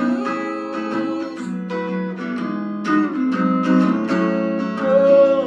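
Acoustic guitar strummed and plucked in an instrumental gap between sung lines of a song.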